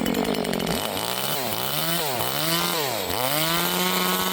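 Small 25cc top-handle two-stroke chainsaw running at high speed, its engine pitch dipping and climbing back several times.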